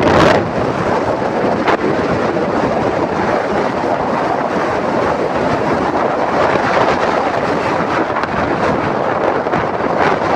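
Steady loud rushing noise with no distinct tone, with a brief louder rush at the start.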